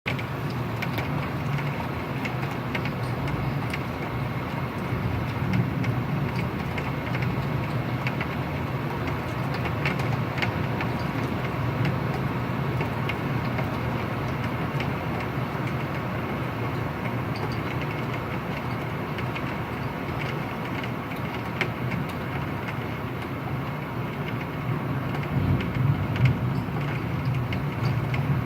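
Heavy rain pouring steadily, a dense even hiss with scattered sharp ticks of drops striking.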